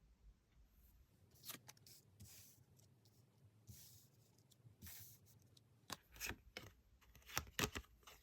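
Tarot cards being handled: light rustles and scattered clicks of the cards, with a few sharper snaps in the second half.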